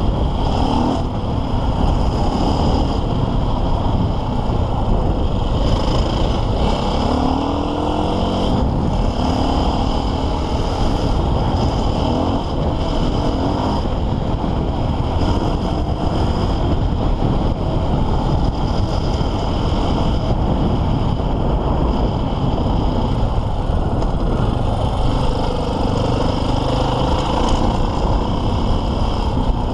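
KTM EXC 450 enduro motorcycle's single-cylinder four-stroke engine running under load while riding offroad, its revs rising and falling with the throttle over a steady low rumble.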